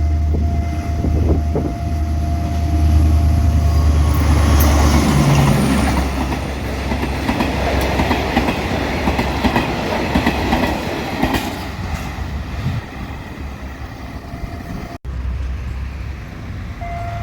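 A diesel locomotive runs past with a deep, steady engine hum for the first few seconds, followed by a long train of cars rolling by with rattling, clattering wheels that slowly fades.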